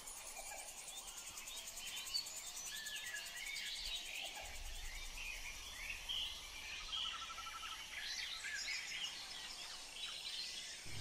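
Birds chirping in the background: many short, varied calls and quick rising and falling whistles, with a brief trill. A faint low hum joins about four seconds in.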